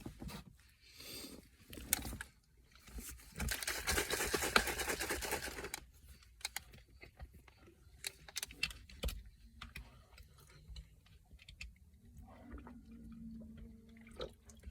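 Crinkling and rustling of a snack wrapper, with crunchy chewing and scattered small clicks. The loudest stretch of crinkling starts about three seconds in and lasts about three seconds.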